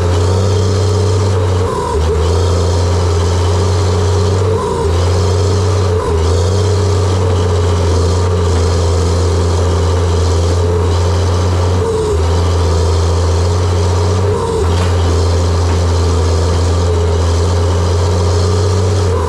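John Deere 700J-II crawler dozer's diesel engine running at a steady speed, with a few brief dips in level.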